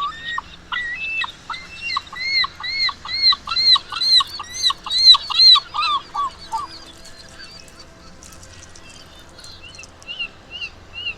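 Glaucous gull calling: a long series of loud, arched yelping calls, about two a second, that builds and then stops about six and a half seconds in. A few fainter, higher calls follow near the end.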